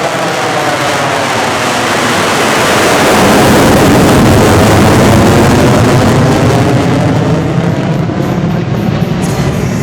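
F-35B fighter's jet engine running loud as the aircraft flies past, swelling to its loudest about four seconds in and then easing off slightly.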